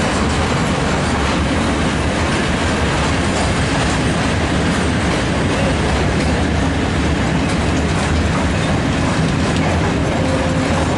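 Long freight train of cement hopper wagons rolling past, a steady rumble of wheels on rail with clicking over the rail joints.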